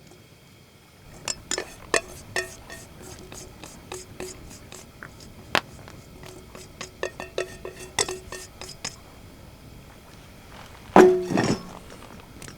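Metal cookware clinking: a utensil tapping and scraping against a metal bowl or pot, each irregular strike ringing at the same pitch. Near the end comes one louder clank of metal.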